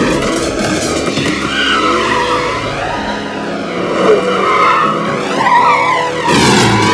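Car-chase sound effects: a Mini Cooper's engine revving hard with tyres squealing and skidding, alongside music.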